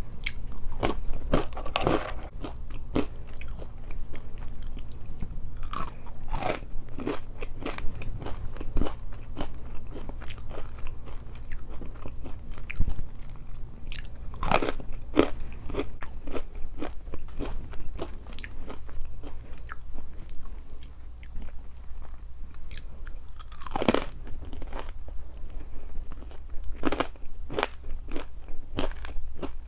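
Close-miked chewing of Chick-fil-A waffle fries: irregular crisp crunches and bites throughout, over a steady low hum.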